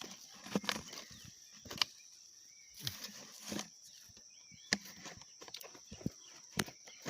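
Steady high-pitched drone of insects, with irregular close knocks and scrapes scattered through it, a few seconds apart. Faint short chirps come in once or twice.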